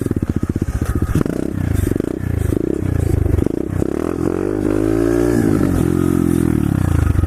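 125cc SSR pit bike's single-cylinder four-stroke engine pulling through the gears, its pitch climbing and dropping several times, then one long rev up and back down near the end. The bike runs with its top motor mount freshly tightened, the cure for the vibration the rider had been hearing.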